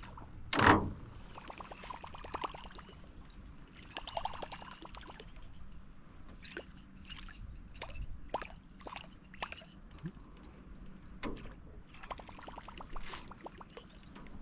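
A sharp splash in the lake water about a second in, followed by scattered drips and trickles of water around a canoe.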